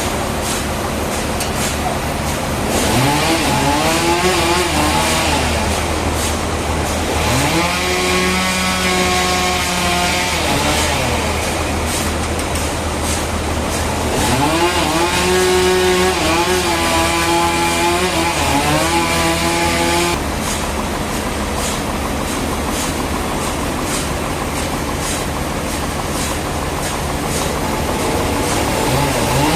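An engine-driven saw at a sawmill, running and revving in repeated long sweeps. Its pitch climbs, holds and drops back several times as it is throttled up and eased off, over a steady low machine hum that changes about two-thirds of the way in.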